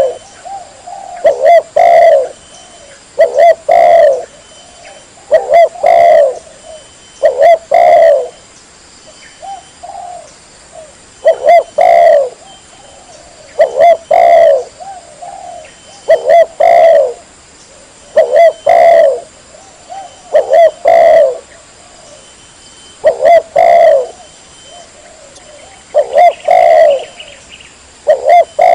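Spotted dove (tekukur) cooing loudly and clearly, one phrase about every two seconds, each made of a few quick notes. It is a recorded call played to lure wild spotted doves.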